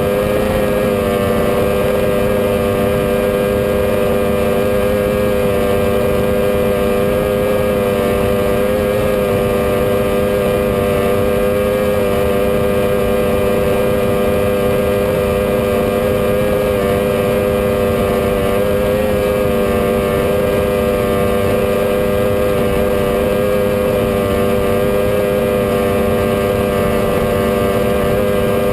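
A 21-foot Challenger powerboat's engine running at steady high speed, a constant loud drone whose pitch neither rises nor falls.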